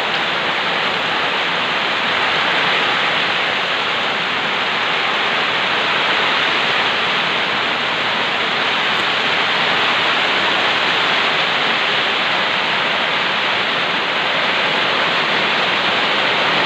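Heavy downpour: a steady, dense hiss of rain with no let-up.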